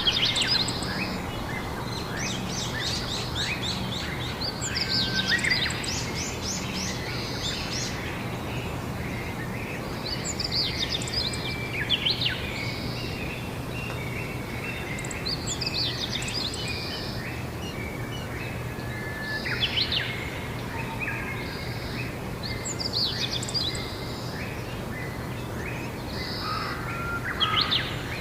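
Songbirds singing outdoors: short, quick twittering phrases repeated every few seconds over a steady background hiss with a faint low hum.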